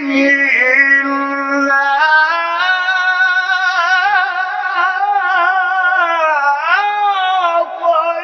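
A reciter chanting the Quran in melodic tajwid style, drawing out long ornamented notes with wavering pitch that sweep sharply upward near the end.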